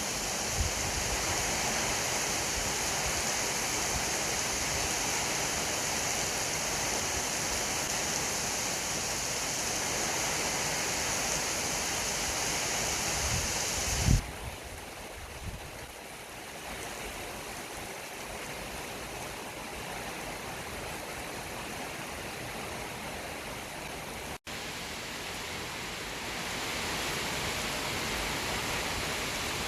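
Steady rushing noise with no speech. It changes abruptly about halfway through, with a short thump, and drops out for an instant a little later.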